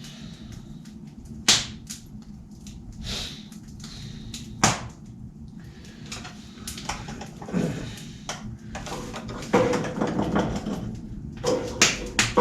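Wood fire burning in a stove, crackling: scattered sharp pops a second or few apart, the loudest two about a second and a half and four and a half seconds in, over a low hiss.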